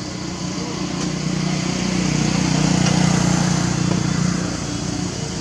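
A small engine running, its hum growing louder to a peak around the middle and then fading.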